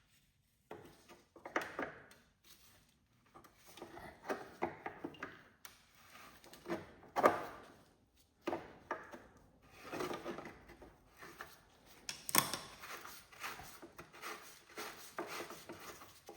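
Hands working at the wiring in a garden tractor's dash: irregular clicks, rattles and knocks of wires, connectors and plastic parts being handled, with the sharpest knocks about seven and twelve seconds in.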